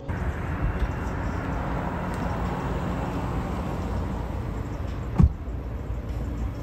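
Steady low rumble of a running vehicle, with a single sharp thump about five seconds in.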